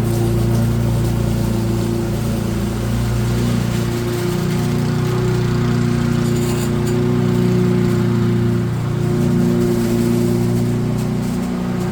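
Small petrol engine of a garden machine running steadily at a constant speed, with a low, even hum.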